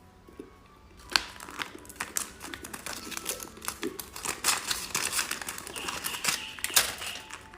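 Crinkly plastic candy wrapper being handled and opened, with many quick, irregular crackles over about six seconds.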